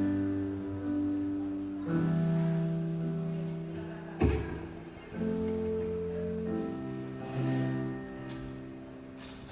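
Live music: the instrumental opening of a song, with chords that ring and change about every two seconds and a single low thump about four seconds in.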